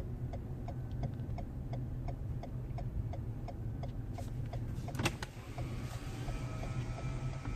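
Turn-signal indicator of a 2017 Toyota Highlander ticking steadily, about two to three clicks a second, heard inside the cabin over the low hum of the running engine. There is one louder click about five seconds in.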